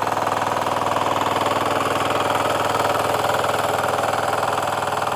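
Diesel engine of a VST FT80 8 HP power weeder running steadily with an even, rapid firing beat while it tills the soil. The engine note is clean, without a rough, cracked sound.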